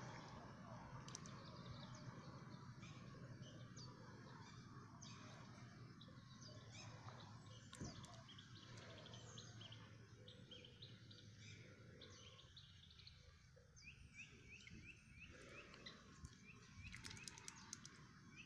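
Faint outdoor ambience with small birds chirping, many short high chirps scattered throughout and more frequent in the second half. A brief cluster of sharp clicks comes near the end.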